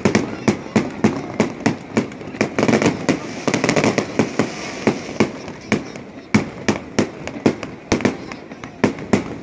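Fireworks display: aerial shells bursting in quick, irregular succession, several sharp bangs a second.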